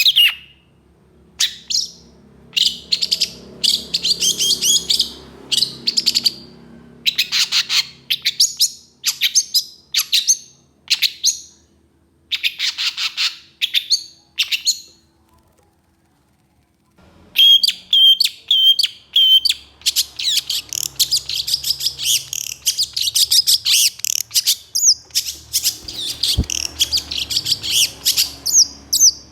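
Long-tailed shrike (cendet) singing in quick runs of short, harsh notes. It falls silent for about two seconds a little past halfway, then resumes in a dense, fast stream of calls.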